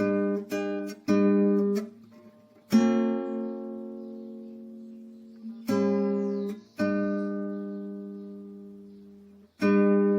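Acoustic guitar music: a few quick chords, then long chords struck and left to ring and fade, with quicker playing starting again near the end.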